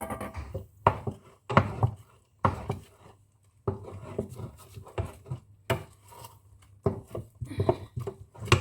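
A spoon scraping and knocking in a pot as the soup is stirred, in about nine uneven strokes roughly a second apart, over a low steady hum.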